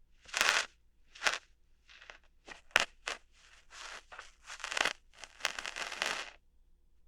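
Ear-hair plucking ASMR sounds: an irregular series of short crackly scratches and rustles, with one sharp click about halfway through.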